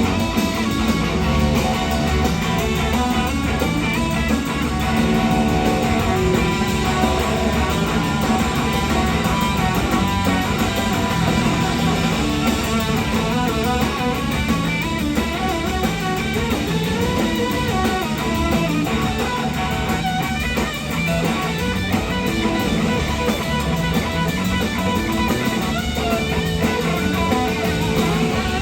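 Live blues-rock band playing, led by an electric slide guitar solo over bass and drums.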